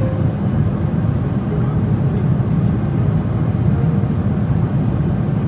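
Steady low rumble of a moving vehicle, running evenly without a break.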